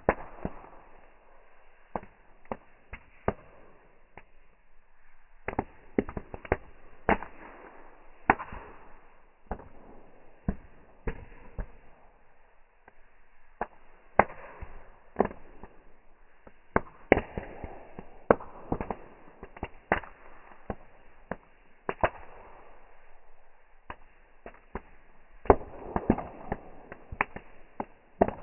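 Bonfire crackling: irregular sharp pops and cracks of burning wood, about one or two a second, over a faint hiss of flames.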